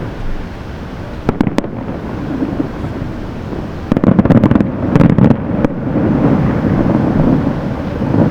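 Aerial fireworks bursting at a distance: a few sharp cracks about a second in, then a dense volley of crackling bangs with low booms around the middle, followed by a lingering low rumble.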